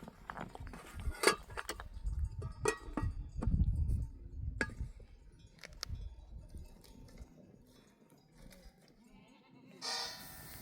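Sheep in a flock bleating: several calls in the first four seconds, the loudest about a second in, and another near the end. Sharp clicks and a low rumble sit under the calls for the first seven seconds or so.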